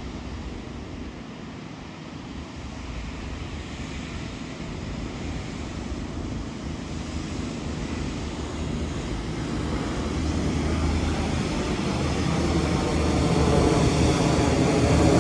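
A train approaching, its rumble growing steadily louder.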